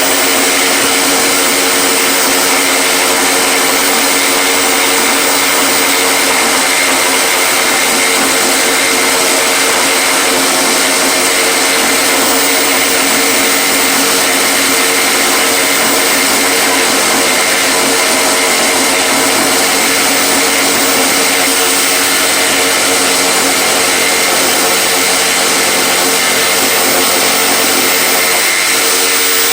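An electric power tool's motor running continuously at a steady pitch, with no stops or changes.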